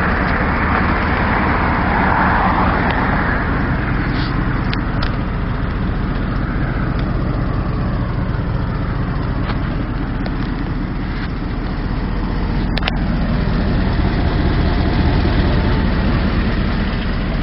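A Dodge Dakota pickup's engine idling steadily, its exhaust let out through upright bed-mounted smokestacks. A broader rushing noise fades over the first few seconds, and a brief click comes about 13 seconds in.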